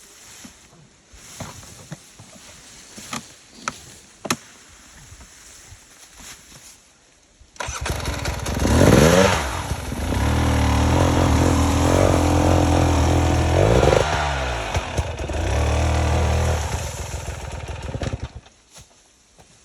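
Enduro dirt bike engine starting about a third of the way in, revving up, then running at steady high revs with a brief dip before dying away near the end. Before it starts there are only faint scattered clicks.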